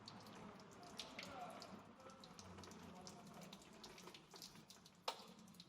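Faint splashing and dripping of boiling water poured from a kettle over a car's dented body panel, with scattered small ticks and one sharper click about five seconds in.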